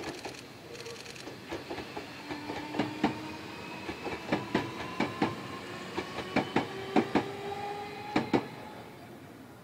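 Tobu 500 series electric train pulling away over the rails, its wheels clacking over rail joints in quick pairs, with a faint motor whine that slowly rises in pitch as it gathers speed.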